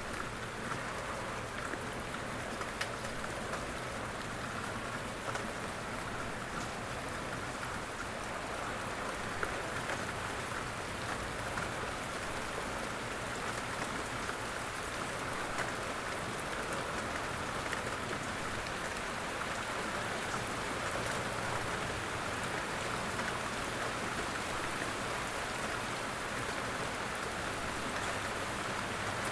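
Steady rain falling on a surface, an even patter with scattered individual drop ticks.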